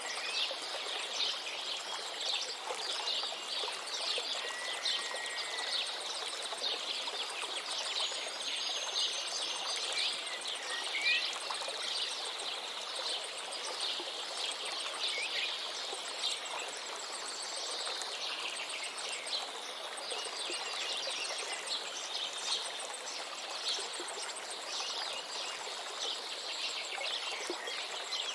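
A river flowing with a steady rush, under many small birds chirping and calling throughout the morning chorus.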